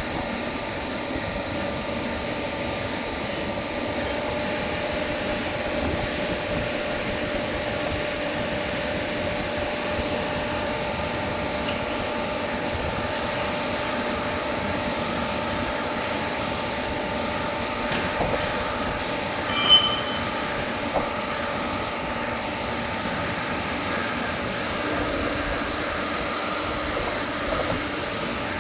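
Large vertical lathe running: steady mechanical noise with a constant hum, joined about halfway through by a high, steady whine, and one short sharp clank about two-thirds of the way in.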